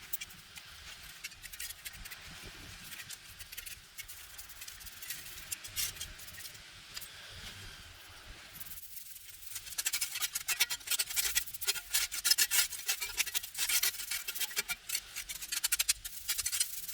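A cleaning tool scrubbing and scraping over a surface in quick rubbing strokes, soft at first, then louder and faster from about halfway through.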